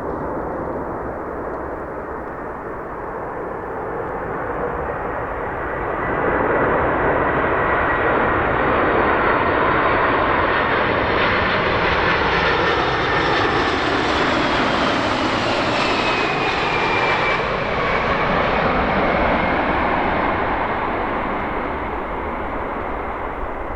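Boeing 747-400 freighter's four turbofan engines passing by, growing louder about six seconds in and easing off later, with a high engine whine that falls in pitch as the aircraft goes past.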